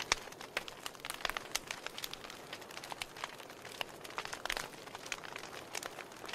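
Wood fire crackling: irregular sharp pops and snaps over a soft steady hiss, with a brief cluster of louder pops about two thirds of the way through.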